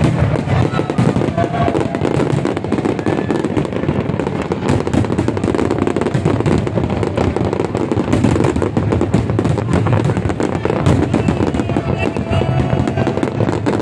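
Large fireworks display: a continuous barrage of aerial shells bursting and crackling with no pause, with music playing underneath.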